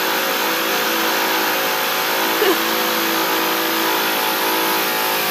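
Construction drilling running steadily: a loud, continuous mechanical drone with several steady tones under a high hiss, strong enough to make the floor vibrate.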